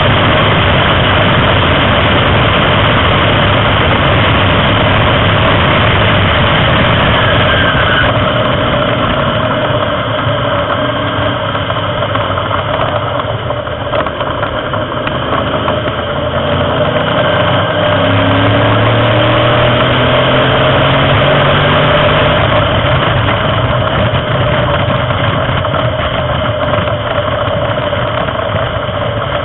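Racing car engine running hard at speed, heard from on board under a loud rush of wind and road noise; a low engine note slowly climbs in pitch a little past the middle.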